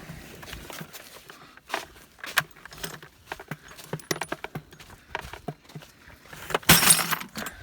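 Scattered light metallic clinks and knocks from scrap metal being handled, then a louder clattering rustle near the end.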